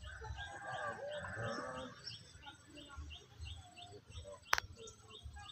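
Outdoor ambience dominated by a bird repeating short high chirps, about four a second, over a low wind rumble. There is a burst of busier calling or chatter in the first two seconds and a single sharp click about four and a half seconds in.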